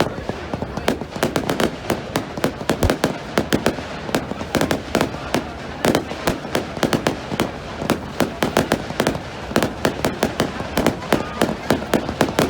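Fireworks going off in quick succession: a dense string of sharp bangs and crackles, several a second, over a steady background rumble.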